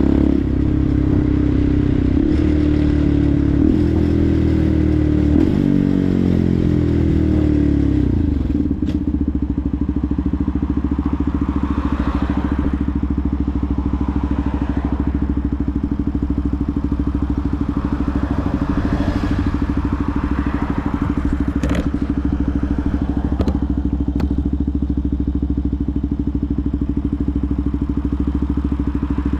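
Benelli TNT 125's single-cylinder engine with its revs dropping over the first eight seconds or so, then running at a steady idle. A few sharp clicks come over the idle.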